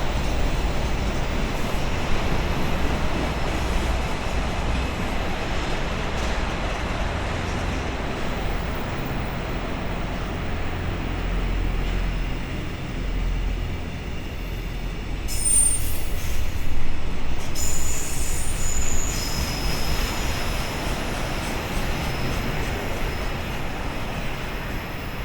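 Freight train hauled by an EH500 electric locomotive pulling away, its wagons rumbling steadily over the rails. About fifteen seconds in, the wheels squeal for a few seconds in several high-pitched tones.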